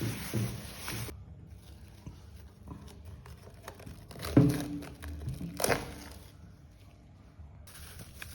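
Rustling and crinkling handling noises with scattered knocks; the loudest knock comes about four seconds in and another just over a second later.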